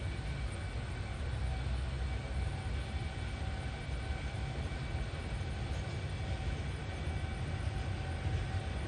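JR Freight EF210 electric locomotive hauling a freight train slowly through a freight yard: a steady low rumble with a few faint steady tones above it.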